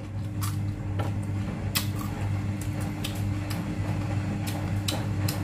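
Raw carrot sticks crunched and chewed close to the microphone, about ten sharp, irregular crunches. Under them runs a steady electrical hum, which the eater puts down to his hot-water heater.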